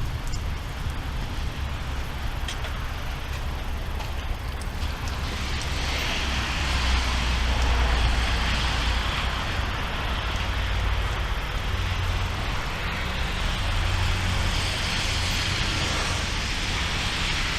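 Thunderstorm outdoors: a steady rushing hiss with a deep rolling rumble of thunder that swells about six seconds in and eases off a few seconds later.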